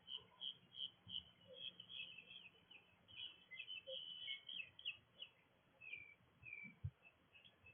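Songbirds chirping: a quick run of short, high chirps, then a few separate downward-sliding notes later on.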